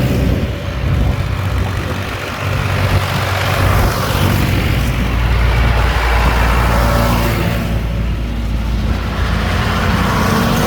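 Tractors driving past one after another, their engines running loud and low, each swelling and fading as it passes.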